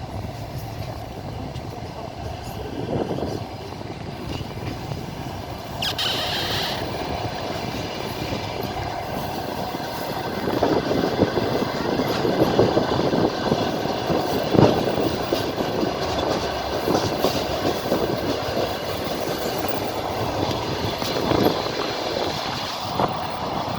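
Wheels of a moving passenger train clattering over the rails, heard from a carriage window. There is a short high squeal about six seconds in, and the running noise grows louder about ten seconds in.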